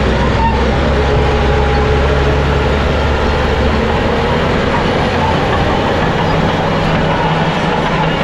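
Crawler bulldozer working: its heavy diesel engine running steadily under load, with the clatter of its steel tracks. The engine note shifts about halfway through.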